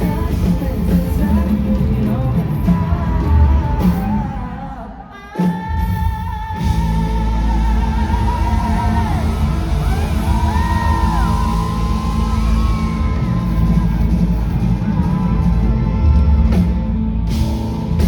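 A live rock band plays with singing and yells. The music drops away for about a second, roughly five seconds in, then returns with a long held vocal note.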